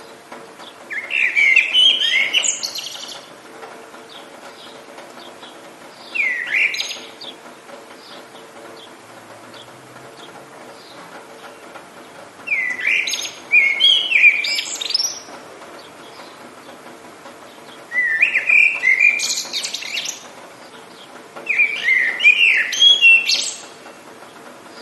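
A songbird singing five short phrases of quick rising and falling whistled notes, a few seconds apart, over a steady background hiss.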